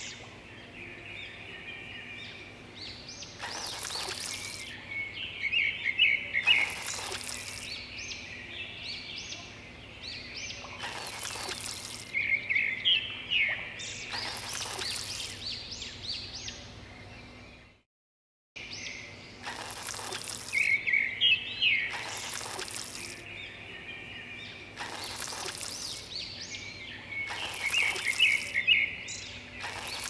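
Birds chirping steadily, with about eight short splashes of water tipped from a small toy bucket onto sand, a few seconds apart. The sound cuts out completely for a moment just past halfway.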